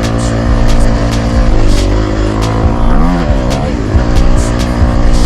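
Honda CRF250 four-stroke single-cylinder dirt bike engine running under load on a trail ride. The revs fall and climb again about three seconds in, with short knocks scattered through.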